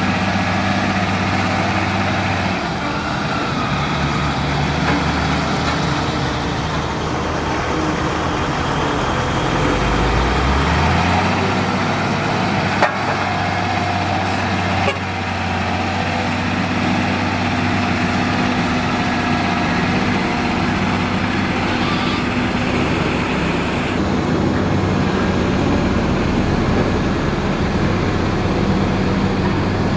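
Diesel engines of heavy road-building machinery running steadily at work, with one engine revving up briefly about ten seconds in. The sound shifts abruptly several times.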